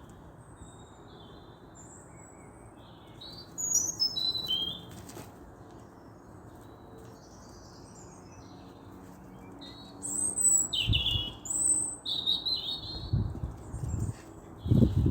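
Small songbirds chirping and twittering in short, scattered high calls over a faint steady background, sparse at first and busier in the second half. Low thumps come in near the end.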